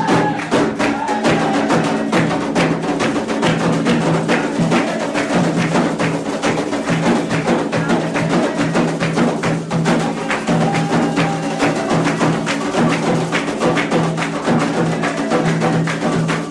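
Candomblé ritual drumming: atabaque hand drums playing a fast, steady rhythm, with sharp, dense clicking strokes over the beat.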